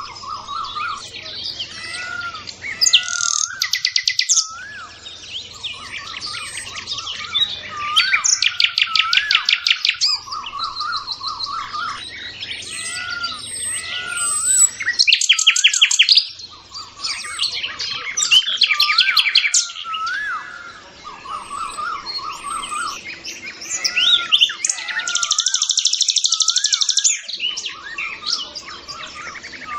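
Several birds chirping and singing, with short up-and-down whistled notes repeating every second or so and fast trills of a second or more breaking in several times.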